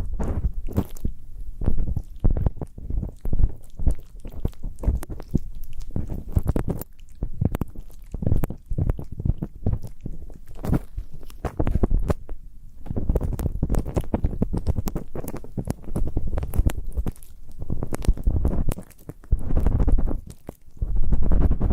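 Ear-cleaning ASMR: ear-cleaning tools scraping and rubbing in a binaural microphone's ear. The sound is dense, irregular crackly scratching over a low muffled rumble, in uneven strokes with a brief lull about twelve seconds in.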